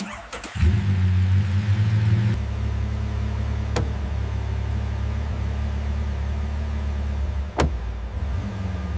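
Lamborghini Aventador's V12 engine running with a steady low rumble, coming in suddenly about half a second in. Two sharp clicks at about four seconds and seven and a half seconds.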